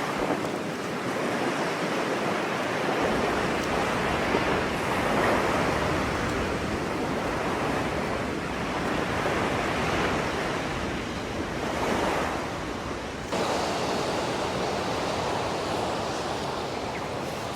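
Sea surf washing onto the shore, a steady rush that swells and eases as the waves come in, with some wind on the microphone.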